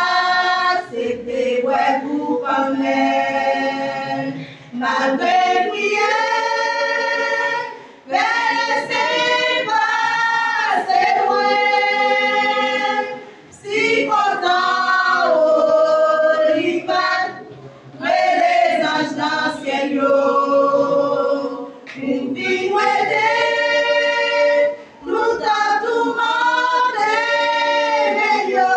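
A cappella choir singing a Haitian Creole gospel song in phrases of about three to five seconds, with short gaps between them.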